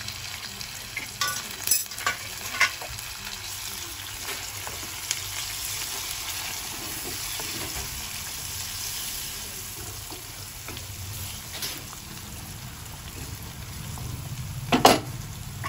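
Chopped onions, green chillies and coriander sizzling in hot oil in a nonstick pan, stirred with a wooden spatula, a steady frying hiss. A few light clicks come in the first few seconds, and a sharp knock near the end is the loudest sound.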